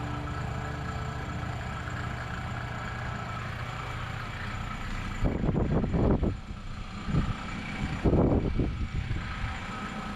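A machine running with a steady hum, broken by two louder rushing surges, about five and eight seconds in.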